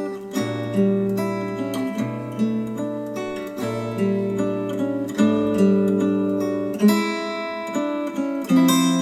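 Acoustic guitar music, plucked notes and chords ringing out in a steady flow, played back through Polk Audio Reserve R200 bookshelf speakers.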